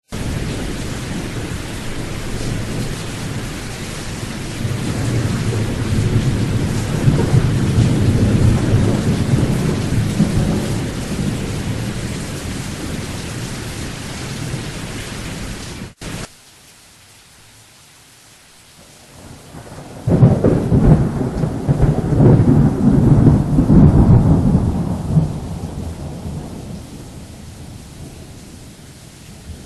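Thunderstorm: rain falling with a long roll of thunder that swells and slowly fades, then drops off suddenly about halfway to softer rain. A few seconds later a sharp thunderclap breaks in and rumbles for several seconds before dying away.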